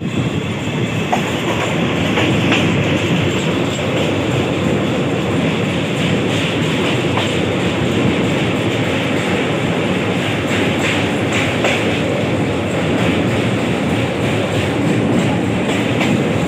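Passenger train running at speed, heard from aboard: a steady rumble and rush of wheels on the track, with occasional clicks over the rail joints.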